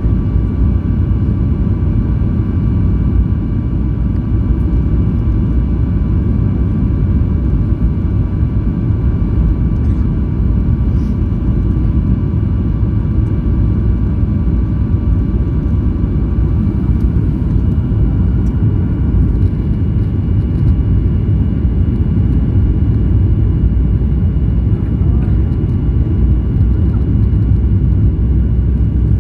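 Steady jet noise of a flydubai Boeing 737 in flight, heard from inside: a loud, even low rumble with thin, steady whining tones from the engines that do not change.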